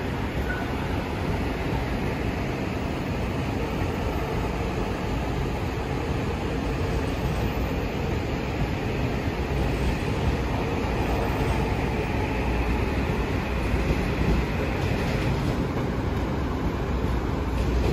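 Metro-North M8 electric commuter train passing close by, a steady rumble and rattle of steel wheels on the track. A faint high whine rises in the middle and stops about three-quarters of the way through.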